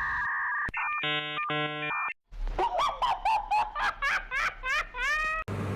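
Edited-in electronic sound effects. First a steady two-tone beep, then a burst of stacked chord-like tones, and after a short break a run of quick upward-sliding chirps that speeds up toward the end.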